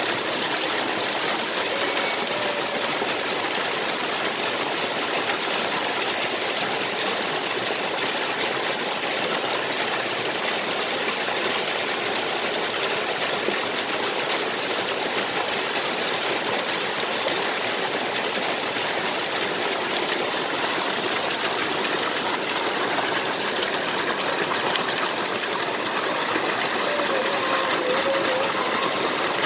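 Water of a waterfall and stream flowing: a steady, even rush of water with no change in level.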